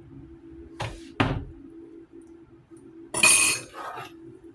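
Kitchen utensil clinking and knocking against the soup saucepan: a couple of short knocks about a second in and a louder clatter about three seconds in, over a steady low hum.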